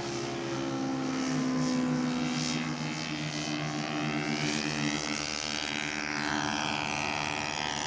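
Scale model Junkers Ju 52 trimotor's Laser four-stroke model engines running at takeoff power: a steady drone of several close engine tones together.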